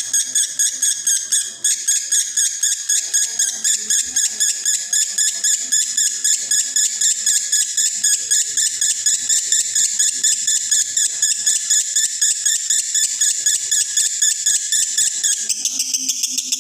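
Male lovebird singing a fast, unbroken 'konslet' chatter of sharp high chirps, about five a second, the song of a male in breeding condition. Near the end the chirps turn higher and thinner.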